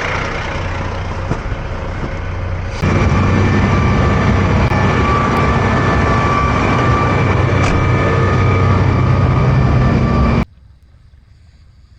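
A steady engine running with a whine, suddenly louder about three seconds in, then cutting off abruptly after about ten seconds.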